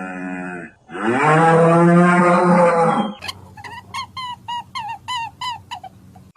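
Cow mooing: one long, low moo ends just under a second in, and a second moo runs about two seconds. From about three seconds in, a different animal gives a quick series of short, high calls, each falling in pitch, about three a second.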